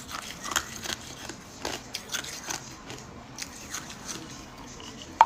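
Hard ice cubes being crunched and chewed in the mouth: irregular sharp cracks, thicker in the first half and sparser later, with one loud sharp crack near the end.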